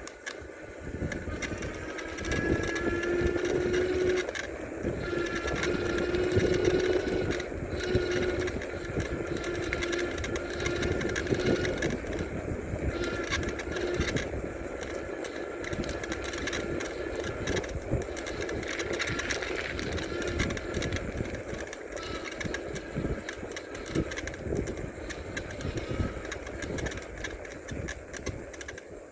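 Bicycle in motion on a paved road: tyre hum and a running rattle of loose parts, with wind on the microphone and a faint steady whine that drifts slightly in pitch.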